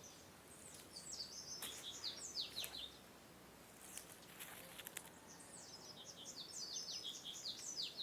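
Double-collared seedeater (coleirinho) singing: two phrases of quick, high chirping notes that slide downward, one in the first few seconds and another near the end.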